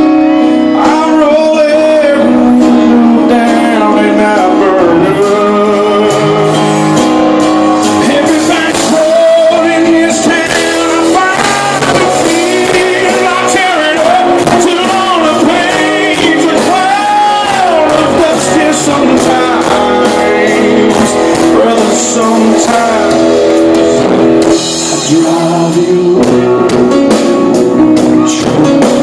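Live country band playing a ballad, with a voice singing over guitars, drums and bass.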